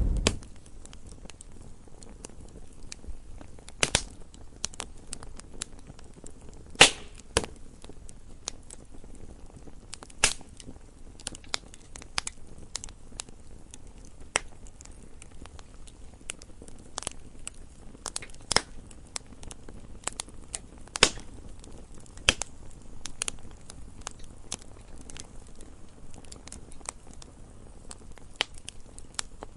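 Campfire crackling: irregular sharp pops and snaps of burning wood over a soft, steady low rush of the flames, with a few louder pops scattered through.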